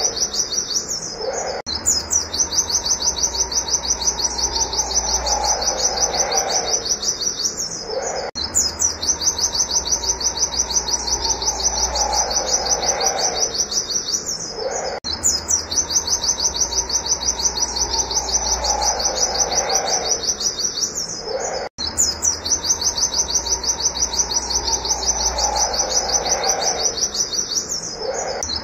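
Pleci (white-eye) singing a fast, unbroken run of high rapid-fire 'wit wit' notes. The same stretch of song repeats about every six to seven seconds, with a brief break at each join.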